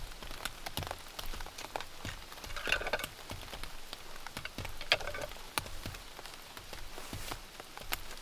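Rain falling, with single drops tapping in an irregular patter over a steady hiss and two louder drip sounds about three and five seconds in.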